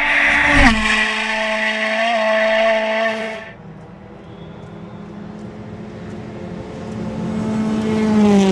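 Rally car engine held at high revs, its pitch dropping sharply just under a second in as it changes gear. The sound falls away about three seconds in, then builds again toward the end, where the pitch falls as the car passes close.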